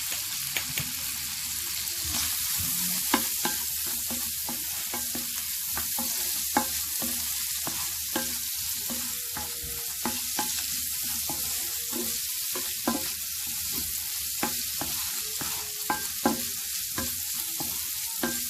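Chicken pieces sizzling in olive oil in a frying pan, with a utensil clicking and scraping against the pan at irregular intervals as the chicken is stirred.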